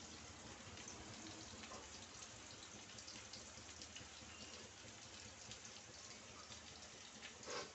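Chicken pieces and onion sizzling faintly in an aluminium pan over a gas flame, with small crackles as a slotted metal spoon stirs them. A single louder clatter comes near the end.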